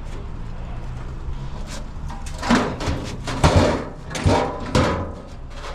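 Scrap metal being handled and set into a load: a run of knocks, scrapes and clunks starting about two and a half seconds in, over a low steady hum.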